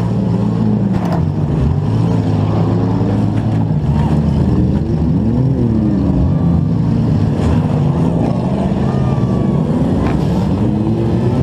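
Demolition-derby compact car's engine, heard from inside the car, revving up and falling back several times while it manoeuvres, with other derby cars' engines running around it. A couple of brief sharp knocks are heard, one about a second in and one near the end.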